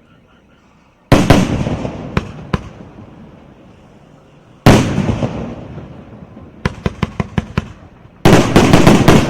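A 36-shot consumer fireworks cake firing: a loud burst about a second in and another near the middle, each dying away slowly, with single sharp cracks between them. A quick run of about six sharp cracks follows, then a dense volley of bursts near the end.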